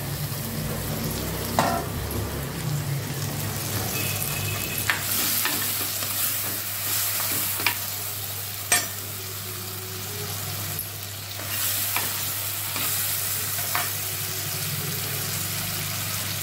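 Drumstick pieces, shallots and tomato sizzling in oil in a clay pot while a steel ladle stirs them. The ladle clinks and scrapes sharply against the pot every few seconds.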